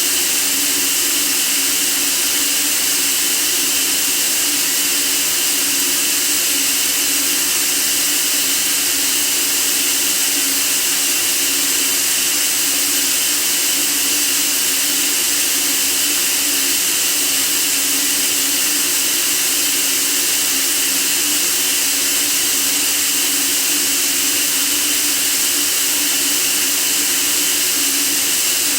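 Steady white noise: an even, unbroken hiss strongest in the high frequencies, with no change throughout.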